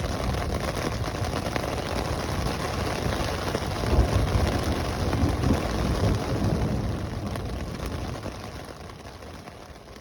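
Steady rain with a low rumble of thunder swelling about four seconds in, the whole sound fading out toward the end.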